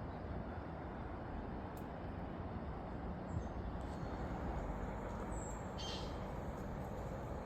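Outdoor background with a steady low rumble, and a few short, high bird chirps about three and six seconds in.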